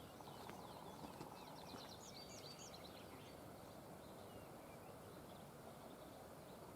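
Faint songbird chirps in the first half, including a quick run of high chirps about two seconds in, over a quiet steady hiss.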